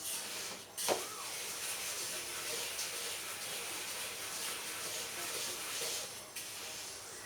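Steady hiss of bird-feed ingredients dry-roasting in a pan over a low flame, with one short sharp sound about a second in.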